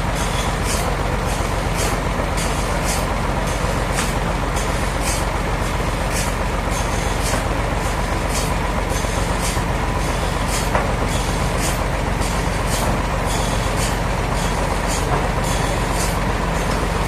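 Sawmill machinery running steadily, with a low engine hum and a faint regular ticking about twice a second.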